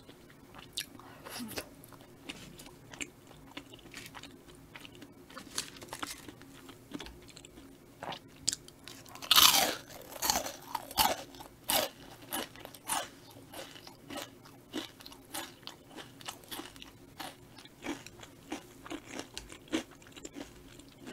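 Close-miked chewing and wet mouth sounds of someone eating rose cream tteokbokki rice cakes, a run of small smacks and clicks that is loudest about halfway through.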